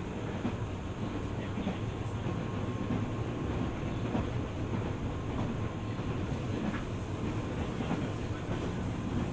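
Running sound of a JR 205 series 600 subseries electric train: a steady rumble of wheels on rail with occasional faint clicks.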